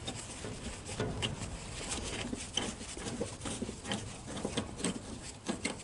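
A long screw being worked out of a wooden trailer board with a screwdriver turned by a wrench on its end: a run of small, irregular clicks and creaks.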